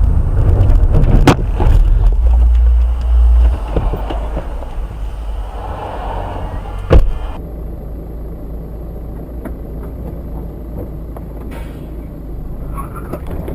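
Car road and engine rumble, with a sharp knock about a second in and a louder bang about seven seconds in, after which a steadier, quieter road rumble follows.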